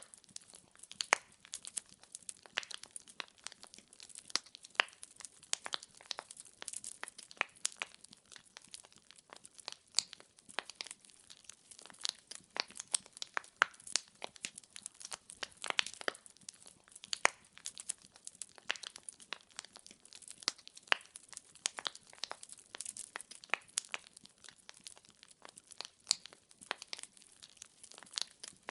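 Wood fire crackling: burning logs give off a dense, irregular stream of sharp pops and snaps over a faint hiss.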